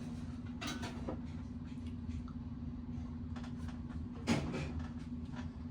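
Scattered clicks and knocks of tools and bicycle parts being handled during reassembly, over a steady low hum; the loudest knock comes about four seconds in.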